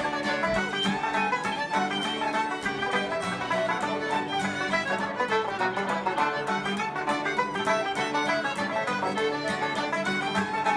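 Ceilidh band playing a lively traditional dance tune, fiddle carrying the melody over plucked-string accompaniment with a steady quick beat.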